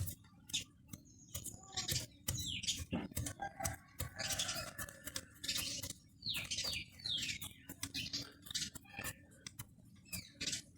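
Irregular sharp clicks and clinks of hand tools on starter-motor metal parts during dismantling, with birds chirping in the background.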